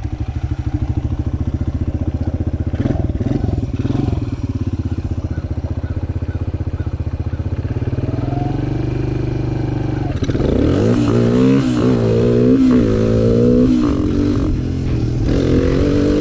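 Suzuki DR-Z125 single-cylinder four-stroke dirt bike engine, big-bored to 150, idling steadily, then revving hard for a launch about ten seconds in. Its pitch climbs and drops back several times in quick succession as the bike accelerates away.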